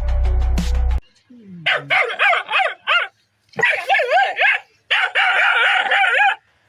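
A dog whining and crying in long, wavering bouts, three stretches with short breaks. Background music cuts off about a second before the whining starts.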